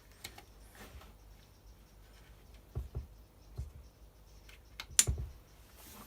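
Scattered light clicks and taps of hand tools and plastic housing parts being handled during a strimmer strip-down, the loudest about five seconds in.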